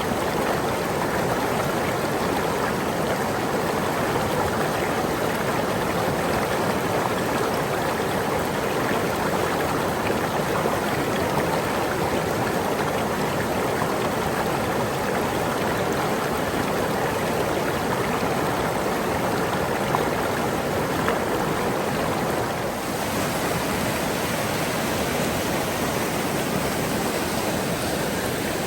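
Steady rush of flowing water, a stream or waterfall, with an even, unbroken hiss and a slight change in tone about three quarters of the way through.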